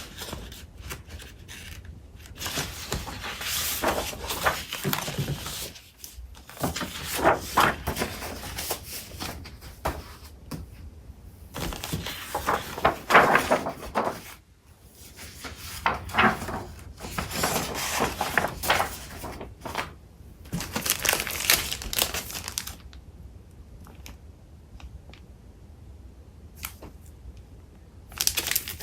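Paper crafting supplies being sorted by hand: sheets of paper and packaging shuffling, rustling and crinkling in bursts with short pauses. It goes quieter for the last few seconds, apart from one more rustle near the end.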